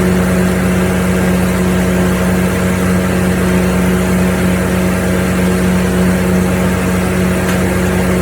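Gasoline engine of a wood chipper running steadily at constant speed, with an even drone.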